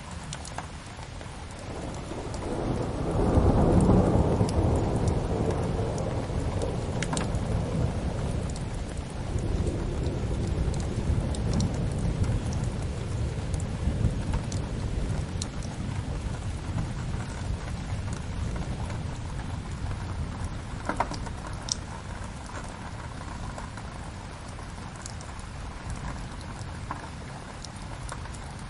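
Steady rain with a long roll of thunder that swells a couple of seconds in, peaks soon after and slowly dies away. A few sharp crackles from a wood fire sound over the rain.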